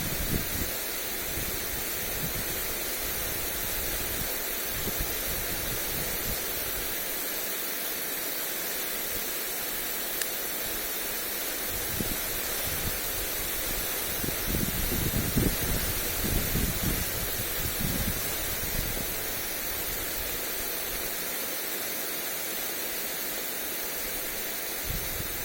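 Lawn sprinkler spraying water onto grass, a steady hiss. Wind buffets the microphone in low rumbling gusts, strongest a little past halfway.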